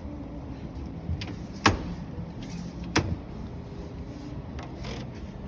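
Two sharp clicks or knocks about a second and a half apart from a display washing machine being handled, over a steady background hum.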